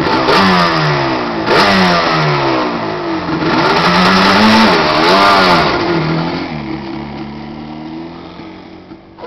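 Quad bike engine revving hard, its pitch sweeping up and down again and again, loud for about six seconds, then fading as the bike moves away.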